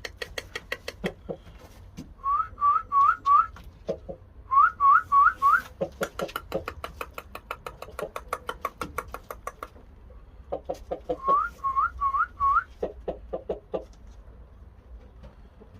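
Shamo chickens clucking in quick runs of short notes. Three sets of four short rising whistle notes come among the clucks.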